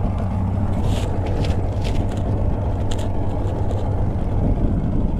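Boat's outboard engine idling steadily, with several short sharp knocks between about one and three seconds in as the kicker motor is tilted up.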